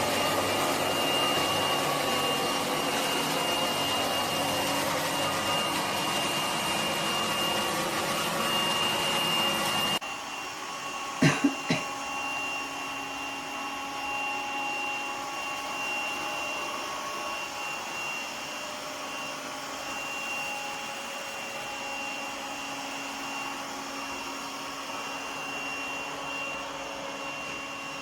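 Lefant M1 robot vacuum running: steady suction-motor noise with a constant high whine. About ten seconds in, the sound abruptly drops to a quieter level. Two or three sharp knocks follow, then it runs on more quietly.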